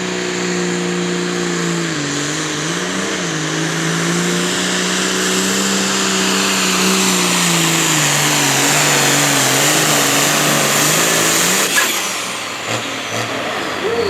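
Competition pulling tractor's engine running hard under load, its note dipping and recovering in pitch as the noise builds. The engine cuts off suddenly near the end.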